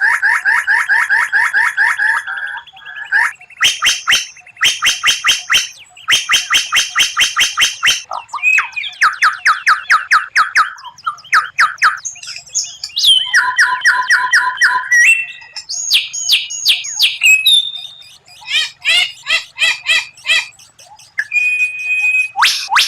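White-rumped shama (murai batu) singing a fast, varied song. Run after run of rapid repeated notes and sharp clicks (the 'tembakan' bursts) alternate with whistled phrases, separated by short pauses.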